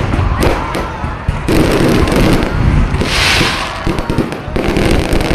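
Fireworks going off in a dense, continuous barrage of overlapping bangs and booms, with a burst of hissing crackle about three seconds in.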